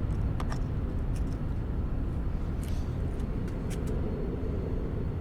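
Boeing 737-800 jet, with its CFM56 turbofans at takeoff power, departing: a steady low rumble that swells slightly toward the end.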